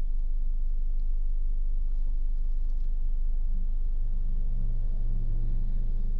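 Car in motion heard from inside the cabin: a steady low road-and-engine rumble, with an engine hum coming up in the second half.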